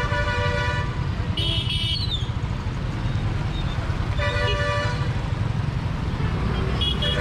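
Vehicle horns honking in short blasts, one horn sounding three times and a higher-pitched horn once, over the steady rumble and wind noise of a motorcycle on the move.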